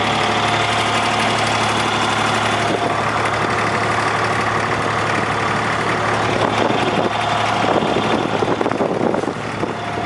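A boat's engine running steadily at a low, even pace, with a constant low hum.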